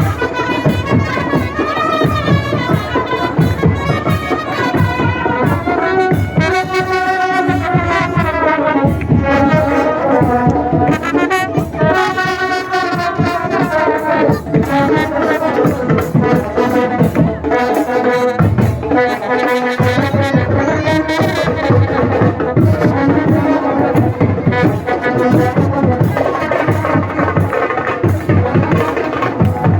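Indian brass band (band baja) playing a wavering melody on trumpets and other brass over fast, steady drumming.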